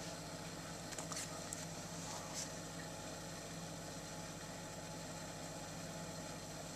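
Neff integrated dishwasher's drain pump running with a steady low hum while the water is not draining, a sign of a blocked drain pipe or a fault in the drain system. A few faint clicks come between about one and two and a half seconds in.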